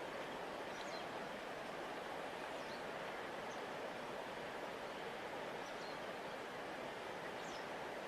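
Steady rushing of a large river flowing past its bank, with a few faint, brief bird chirps scattered through it.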